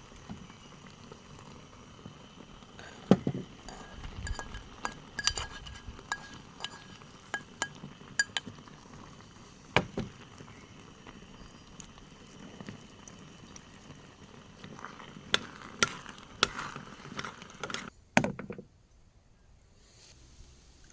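Scattered clinks and knocks of dishes and utensils being handled, over a steady background hiss. The sound drops away abruptly near the end.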